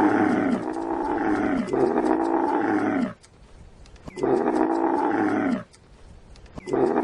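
Camel roaring: a series of long, loud groaning calls, each falling in pitch at its end. Three come close together, then two more follow after pauses of about a second.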